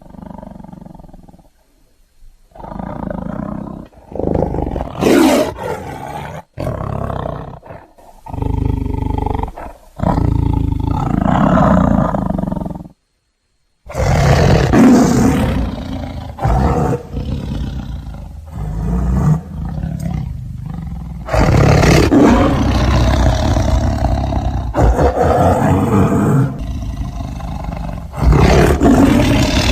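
Tiger roaring, in a series of short separate clips joined with abrupt cuts; the sound drops out completely for about a second a little before the middle.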